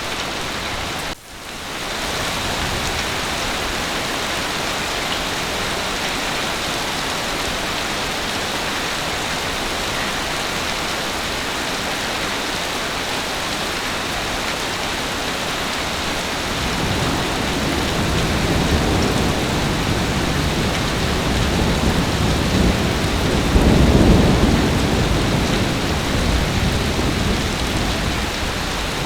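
Heavy rain falling steadily, broken by a momentary dropout about a second in. Past the middle, a long low roll of thunder builds, peaks near the end and fades away.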